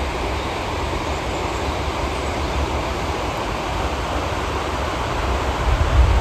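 Steady rain noise outdoors, with a low rumble of wind on the microphone that swells briefly near the end.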